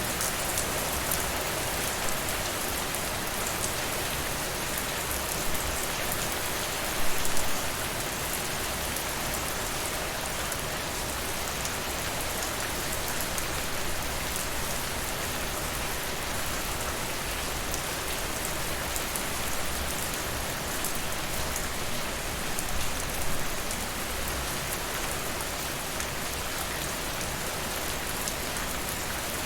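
Steady rain falling on a surface, an even hiss of drops throughout, with a couple of brief louder bursts about seven seconds in and again a little past the two-thirds mark.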